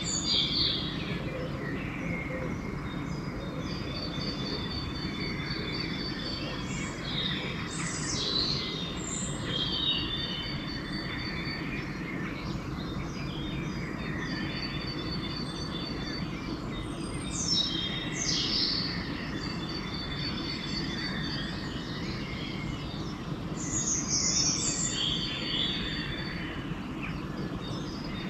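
Dawn chorus of several songbirds singing at once, with quick downward-sweeping whistles and steady runs of fast repeated high notes. A steady low rumble of background noise runs underneath.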